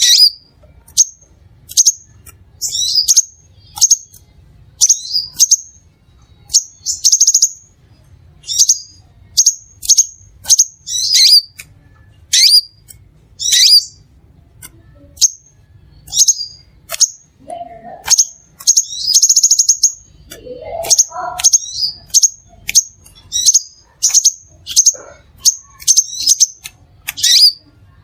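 Crimson sunbird calling: a long string of short, high, sharp chirps, one or two a second, with a longer, denser trill about nineteen seconds in. Two lower sliding notes are heard briefly around seventeen and twenty-one seconds.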